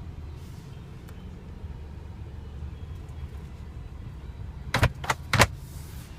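A few sharp clicks and a knock from a car's glove box lid and latch, about five seconds in, over a steady low rumble.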